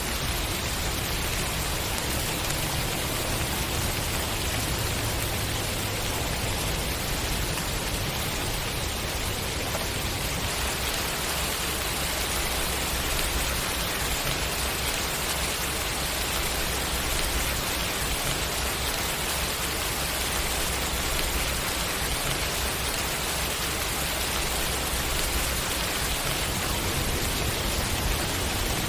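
Steady, continuous rainfall with a low rumble underneath.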